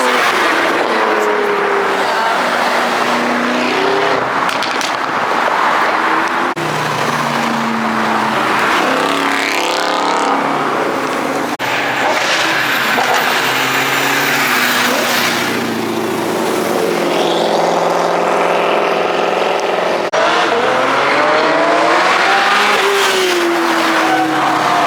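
Performance car engines revving and accelerating at a car meet, their pitch rising and falling, in several short clips joined by abrupt cuts.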